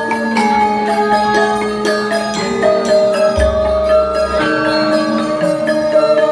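Javanese gamelan ensemble playing: bronze metallophones strike a steady melody of ringing notes, with a deep gong stroke about halfway through.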